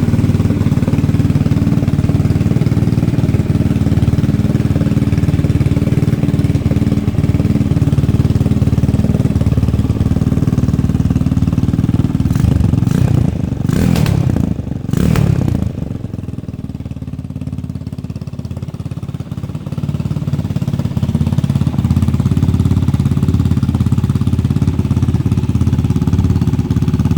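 Yamaha SR500-based chopper's single-cylinder four-stroke engine running just after a cold start, loud and steady through a short exhaust. Around the middle come several quick throttle blips with sharp cracks, after which it runs quieter for a few seconds before settling back to its steady idle.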